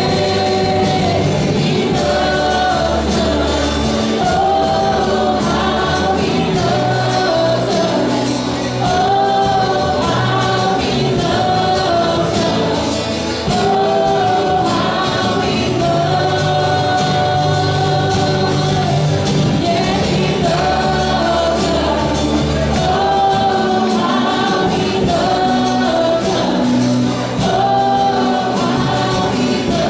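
A worship team singing a gospel-style praise song with band accompaniment, several voices together over steady bass and keyboard-like chords.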